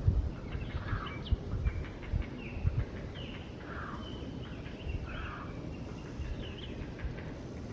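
Forest birdsong ambience: several small birds chirping and whistling in short, quick phrases, some sliding up or down in pitch, over a steady low rumble with a few soft thumps in the first few seconds.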